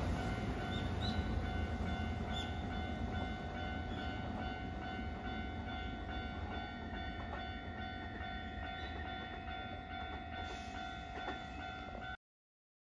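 Kintetsu Nara Line electric train pulling away, its low rumble slowly fading as it recedes. The sound cuts off abruptly near the end.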